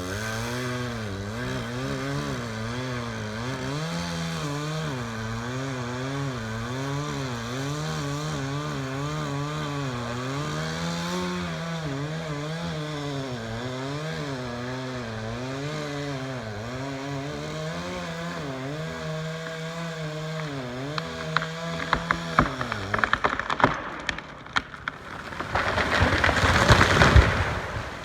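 Chainsaw running hard through a big tree trunk, its pitch wavering as it bogs and recovers under the cut, until it drops away about three-quarters through. Then comes a run of sharp wood cracks as the trunk gives way, and a loud crash of the huge tree hitting the ground near the end.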